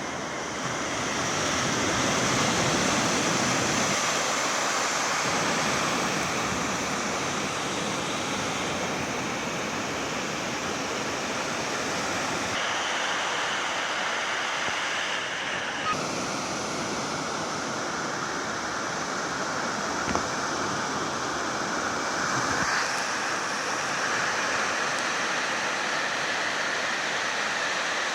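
Ocean surf washing onto a sandy beach: a steady rush of breaking waves that swells and eases.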